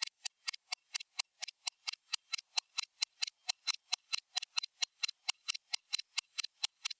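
Stopwatch ticking sound: rapid, evenly spaced sharp ticks, about five or six a second, keeping a steady pace.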